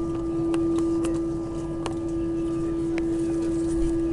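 Airbus A319 jet engines heard from inside the passenger cabin: a steady drone with a constant whine that does not change pitch, and a few small clicks or rattles.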